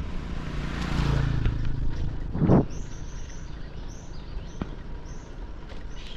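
Birds chirping, a quick run of short high calls, after a low rumble and a brief loud thump about two and a half seconds in.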